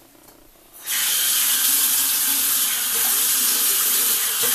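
Bathroom sink tap turned on about a second in, then running a steady stream of warm water into the basin.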